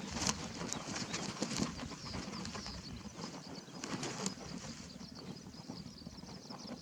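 Birds chirping and calling in a field, many short high notes with a few sharp clicks, over a steady low rumble.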